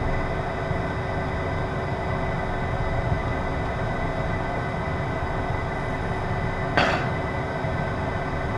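Cabin noise of a Beechcraft Premier 1's twin turbofan engines: a steady rumble with a constant whine on top. There is a brief hiss about seven seconds in.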